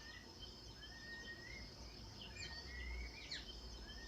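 Riverside bird calls: a rising whistle repeated about every second and a half, with scattered short chirps, over a thin steady high insect drone.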